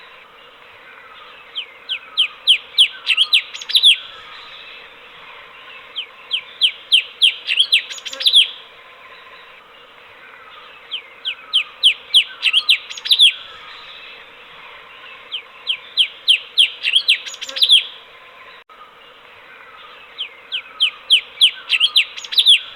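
Cucak cungkok singing: five loud phrases, each a quick run of about six to eight sharp, down-slurred whistled notes, repeated every four to five seconds over a steady background hiss.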